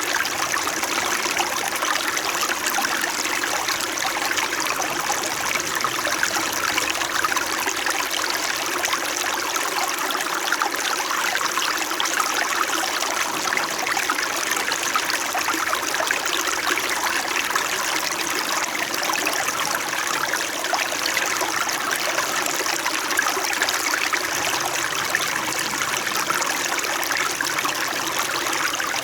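Small mountain stream flowing steadily over stones, an even, gentle babble.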